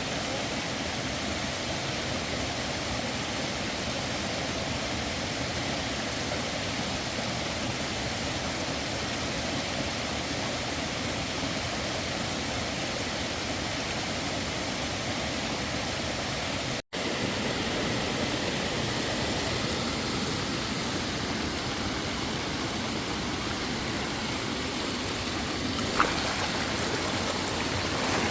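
Steady rush of flowing water, with a brief dropout about two-thirds of the way through after which it goes on slightly louder, and a single sharp click near the end.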